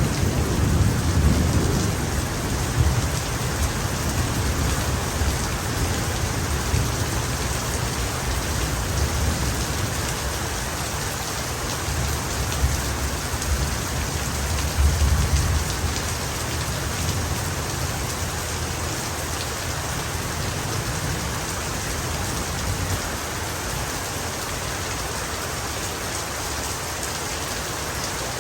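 Heavy rain falling steadily, with thunder rumbling low and long through the first half. The thunder swells loudest about halfway through, then dies away, leaving only the rain.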